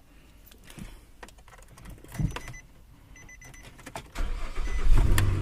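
A car's warning chime beeps in short runs amid small clicks, then about four seconds in the engine starts and settles into a steady idle.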